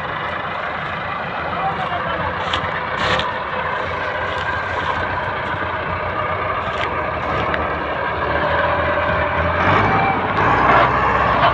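Massey Ferguson 375 tractor's diesel engine running hard under load, getting louder in the last few seconds, with a few sharp knocks.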